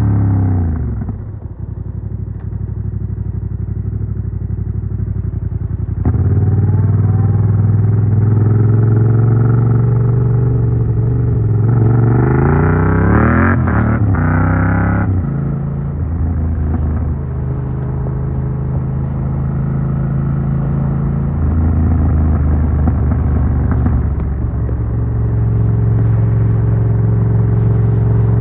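Yamaha MT-07's CP2 parallel-twin engine through an Arrow Works full exhaust with dB killer, heard from the rider's backpack while riding. The revs drop at the start, and the engine runs low and steady for a few seconds, then pulls harder. About halfway through the pitch sweeps up and down quickly, and the engine then settles back into steady running with a few changes in revs.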